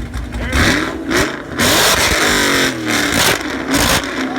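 Car engine revved hard several times, its pitch rising with each rev and falling away, with loud stretches of exhaust noise in between.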